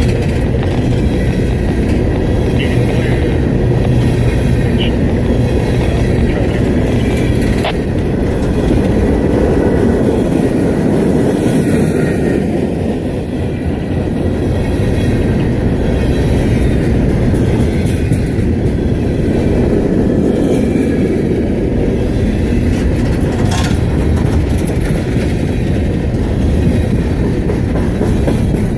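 Empty coal hopper cars of a freight train rolling past close by: a steady, loud rumble of steel wheels on the rails with clickety-clack, faint brief wheel squeals now and then, and a couple of sharp clanks.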